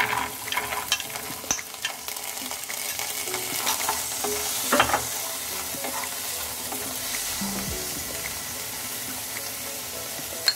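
Sweet corn kernels land in a hot metal kadhai of butter and fried onion and sizzle steadily, while a wooden spatula stirs them, scraping and tapping against the pan.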